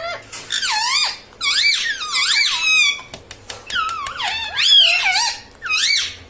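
Indian ringneck parrot giving high, squeaky warbling calls in four bursts, its pitch wobbling rapidly up and down.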